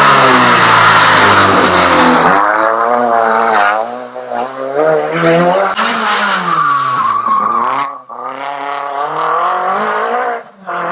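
Rally car engine revving hard, its pitch climbing and dropping over and over as it works through the gears, with sharp dips in loudness about four, eight and ten seconds in.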